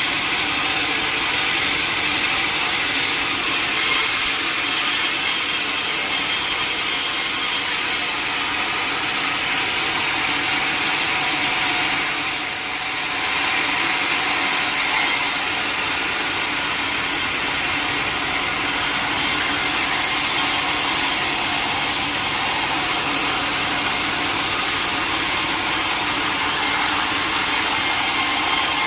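Sawmill blade cutting through a mahogany log: a steady, continuous sawing noise that dips briefly about twelve seconds in.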